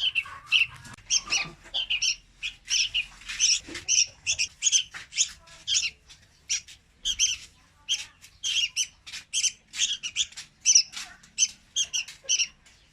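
Young red-whiskered bulbuls calling: a rapid run of short, high chirps, about three a second, with a brief pause about six seconds in.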